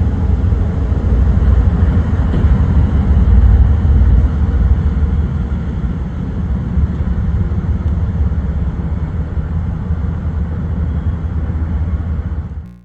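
Heavy vehicle rumbling steadily, cut off abruptly near the end.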